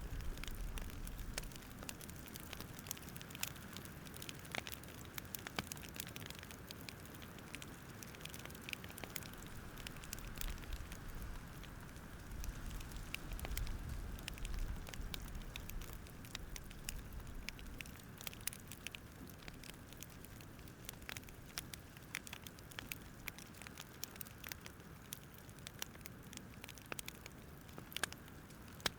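Campfire crackling: irregular small pops and snaps, many per second, over a soft steady low rumble.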